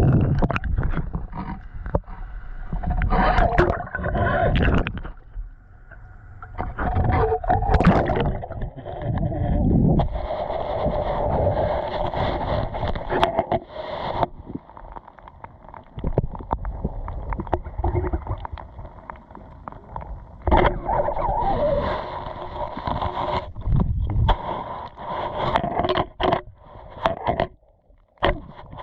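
Muffled water gurgling and rushing heard through a GoPro held underwater in a creek, with repeated knocks and scrapes against the camera housing.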